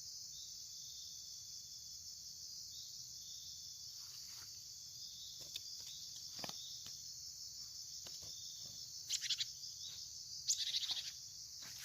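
Steady high-pitched chorus of insects, crickets or similar, running on without a break. A few faint clicks fall through it, and two short louder bursts come about nine and ten and a half seconds in.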